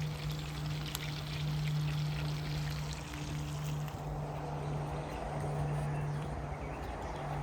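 Water running or pouring, with a steady low hum underneath.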